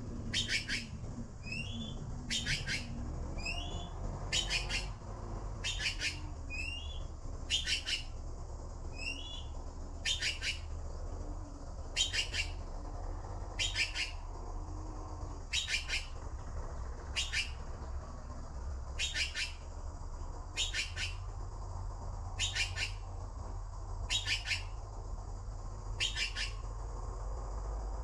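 A bird calling over and over, one short call about every one and a half seconds. In the first ten seconds or so, short sliding chirps come in between the calls.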